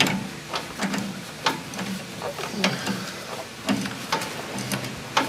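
Hand ratchet wrench clicking in short, irregular strokes, about two clicks a second, as nuts are worked loose on a car's front suspension.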